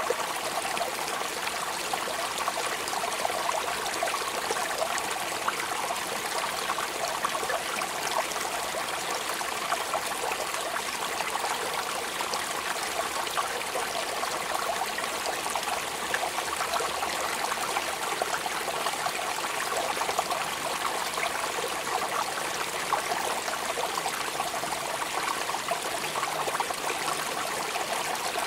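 Steady rain falling: an even hiss of water flecked with countless small drop sounds, unchanging throughout.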